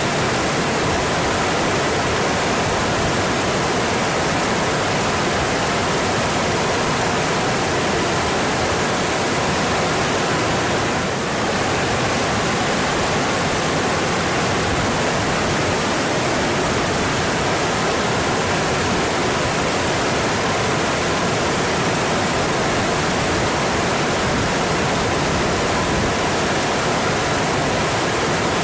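Mountain stream rushing steadily over rocks, an even wash of water noise that softens briefly about eleven seconds in.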